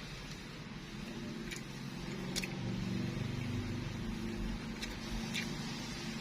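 A low, steady engine-like hum that grows a little louder about two seconds in, with a few short sharp clicks from eating.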